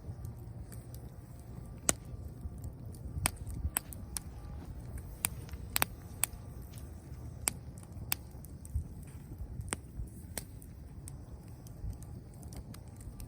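Bonfire of dead branches and dry leaves crackling, with sharp pops about once or twice a second over a steady low rumble of the flames.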